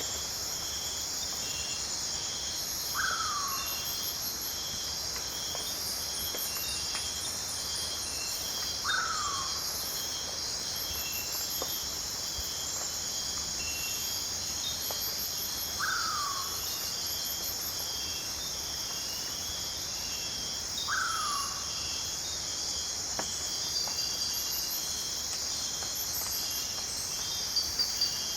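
Night rainforest insect chorus: a steady shrill buzzing with layers of fast pulsing chirps. A short call sliding downward in pitch repeats about every six seconds over it.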